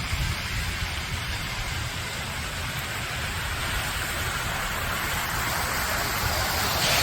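Steady rushing hiss of water, with an uneven low rumble of wind on the microphone beneath it; it grows a little louder near the end.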